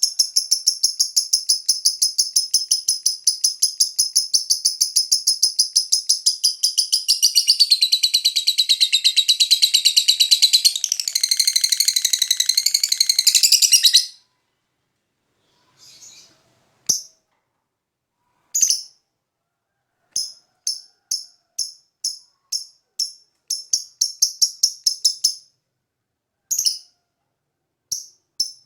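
Lovebird chattering: an unbroken run of rapid high chirps, about five a second, that shifts lower and gets denser partway through and breaks off suddenly about halfway. It is followed by short separate bursts of chirps spaced a second or so apart.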